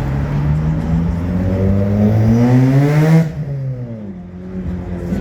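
Car engine revved up, its pitch climbing steadily for about three seconds, then falling quickly back toward idle when the throttle is released.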